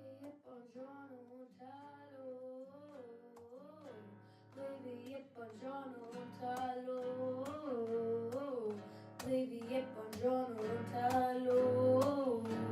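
Pop song intro: strummed acoustic guitar under a wavering sung melody, growing fuller and louder about halfway through.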